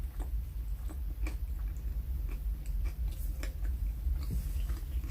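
A person chewing a sandwich close to the microphone: soft, irregular mouth clicks and smacks over a steady low hum.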